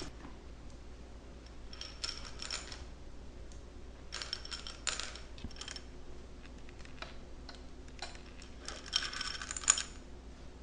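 Three short spells of light clicking and clinking, small hard kitchen items tapping against each other.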